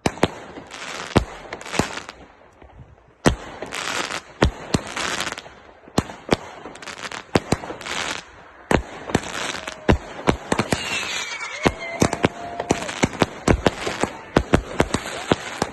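Consumer fireworks compound firing: a rapid, irregular run of sharp bangs from shots going up and bursting, with crackle and hiss between them and a couple of brief whistling tones about two-thirds of the way through.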